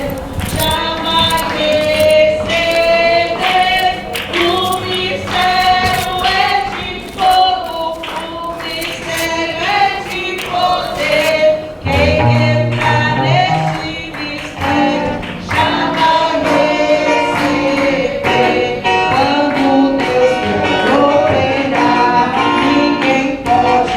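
Gospel singing from a church service: a group of voices singing over a band, with drums keeping a steady beat, heard from outside the building.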